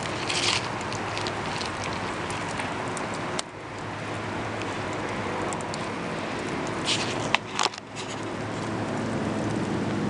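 Campfire burning with a steady hiss and crackle, with a few sharp pops about seven seconds in.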